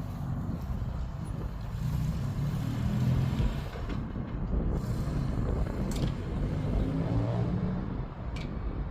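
1959 Jaguar XK150's twin-cam straight-six running as the car pulls away in first gear, its note rising and falling. Two sharp clicks in the second half.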